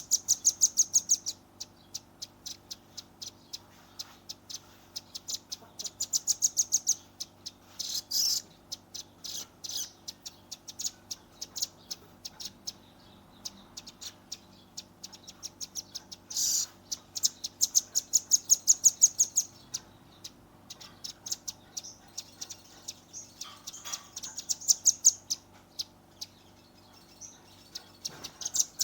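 Red-billed nuthatch (velvet-fronted nuthatch) rapid-firing trains of sharp, high chip notes, about ten a second, in bursts of a second or so; this is the rapid 'nembak rapat' call used to tutor songbirds.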